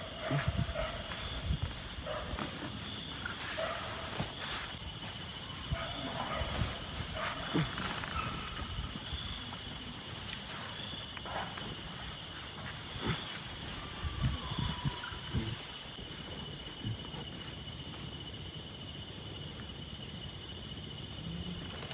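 Insects chirring steadily in two high, pulsing tones, with scattered soft knocks and clicks over the top.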